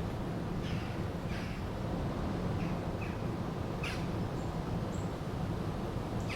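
Steady rushing of a river, with short bird calls scattered over it, about eight brief chirps, the loudest about four seconds in.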